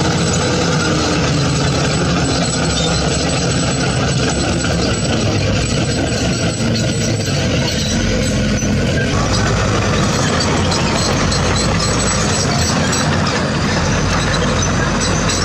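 Heavy diesel construction machinery running steadily, its engine note shifting about eight to nine seconds in, with light sharp clicks near the end.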